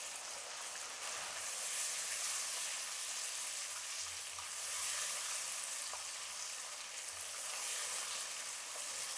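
Chili sauce, soy sauce, garlic and onion sizzling in hot oil in a non-stick kadai while a silicone spatula stirs them. The sizzle is steady and swells twice.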